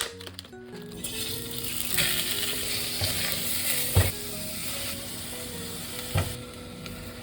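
Food sizzling in a hot frying pan as it is stirred, with two knocks of a utensil against the pan. The sizzle starts about a second in and drops away shortly before the end.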